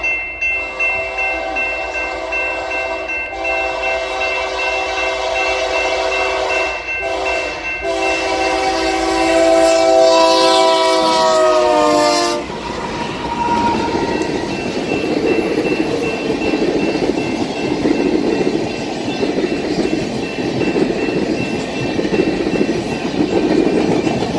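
Union Pacific diesel locomotive's multi-chime air horn blowing the long-long-short-long grade-crossing signal. The chord drops in pitch as the locomotive passes and cuts off about twelve seconds in. The passenger cars then roll by with a steady wheel-on-rail rumble and clatter, while a crossing bell rings.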